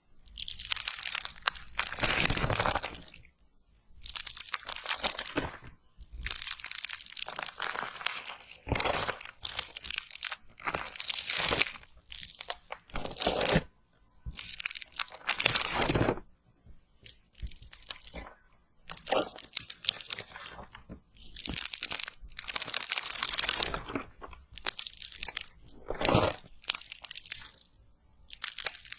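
Slime being handled and squeezed close to the microphone, in repeated bursts a second or two long with short pauses between.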